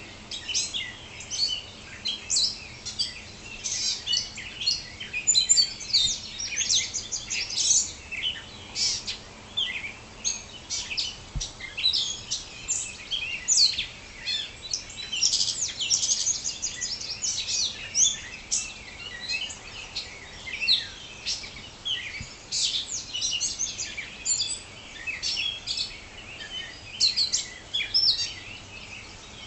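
Dawn chorus: several songbirds singing and chirping at once, a dense run of short overlapping phrases and chirps.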